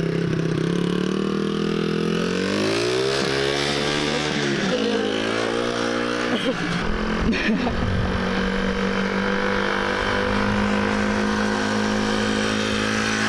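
Small dirt bike engine running, freshly revived with a new spark plug and carburettor. Its revs climb about two seconds in, drop back briefly, climb again, then hold steady at a higher pitch.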